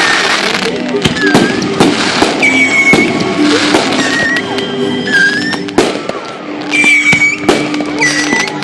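Fireworks display: repeated bangs and crackling, with several high whistles from whistling fireworks. Music plays underneath.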